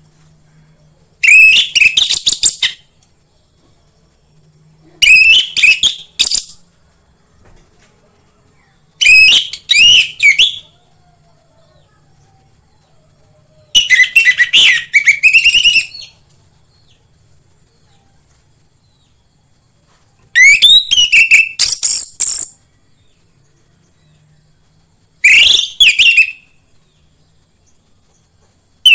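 Orange-headed thrush song: six separate phrases of rapid, varied whistled notes, each about two seconds long and a few seconds apart, with another phrase starting at the very end. A faint steady high hiss runs underneath.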